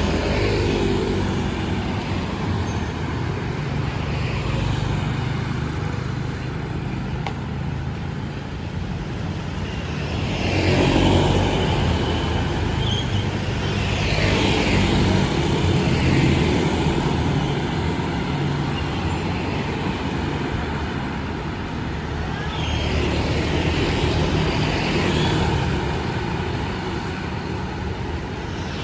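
Street traffic: a steady rumble of engines, with vehicles passing close about four times, each swelling and then fading with a falling pitch.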